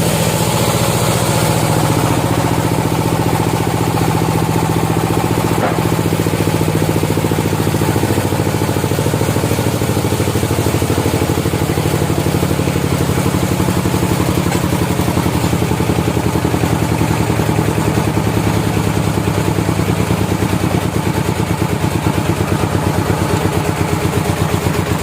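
A sawmill's engine running steadily, with a fast, even pulsing beat and small shifts in pitch now and then.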